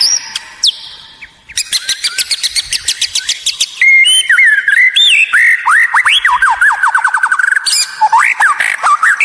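White-rumped shama (murai batu) singing a varied song: a fast clicking rattle, then clear whistled notes sliding up and down, and a quick run of short repeated notes near the end.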